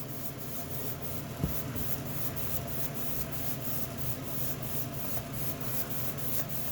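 Wet paintbrush scrubbing back and forth over drywall joint compound, quick strokes several times a second as the water wet-sands the ridges smooth. A short knock about a second and a half in.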